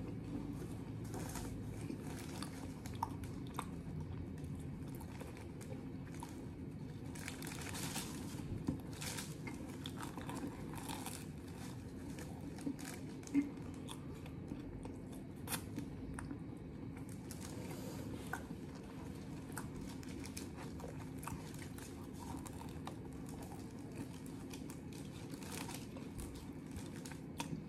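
A person chewing and biting into a beef sandwich in toasted, waffle-pressed bread, with scattered short crunches and clicks over a steady low hum.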